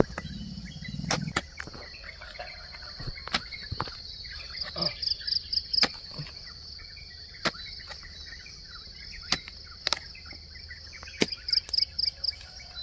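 A hoe striking the soil again and again, each stroke a sharp knock coming every second or two. Behind it are a steady high-pitched insect drone and birds chirping.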